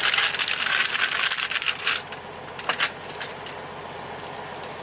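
Makeup items being rummaged through and handled: a crinkly rustle with small clicks and clatters for about two seconds, then only a few faint clicks.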